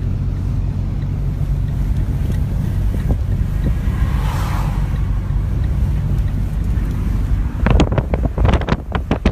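Storm wind from a tornado buffeting the microphone: a loud, steady low rumble. Near the end, a rapid run of sharp knocks and crackles cuts in.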